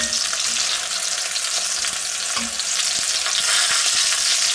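Meat patties and mince-stuffed peppers sizzling steadily in hot clarified butter in a cast-iron cocotte, with a few soft taps and scrapes of a plastic spatula turning them.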